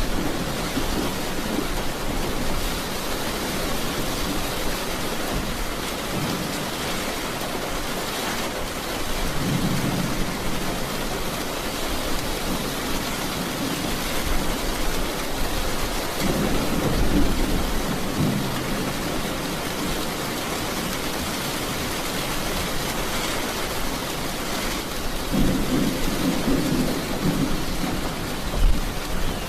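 Steady heavy rain hissing, with low rolls of thunder rumbling up three times: about a third of the way in, just past halfway, and near the end.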